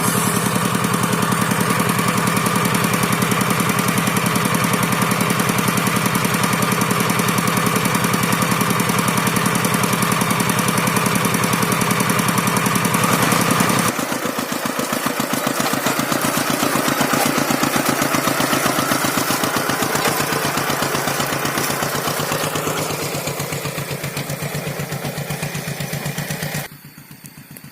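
Rice-field tractor engine running with a fast, even chugging beat while plowing dry paddy ground. About halfway through it steps down suddenly in level, then fades and drops sharply much quieter near the end.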